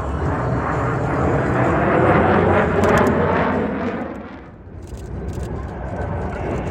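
Fixed-wing aircraft engine noise, loud and steady, that drops away briefly about four and a half seconds in and then builds again.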